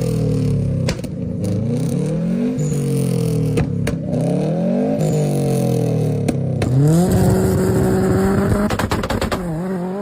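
A car engine being revved over and over, its pitch rising and falling in about five repeated blips. Then it is held at a steady higher pitch for a couple of seconds before it drops near the end.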